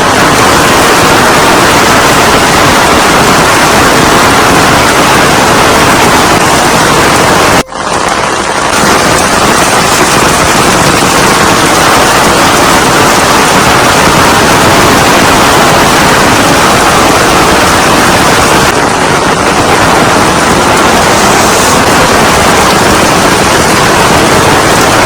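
Loud, steady rush of heavy rain or running water, with a brief break about eight seconds in.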